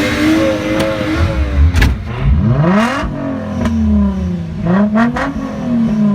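A car engine being revved several times, its pitch climbing and falling back in about three sweeps, with a few sharp cracks mixed in.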